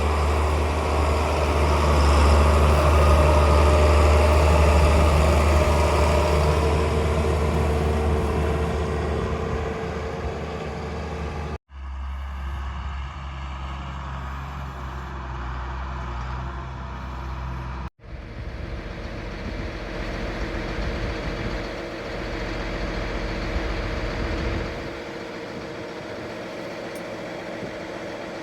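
John Deere 4955 tractor's six-cylinder diesel engine running steadily with a deep hum, loudest over the first several seconds. The sound cuts out for an instant twice, about twelve and eighteen seconds in, between spliced takes.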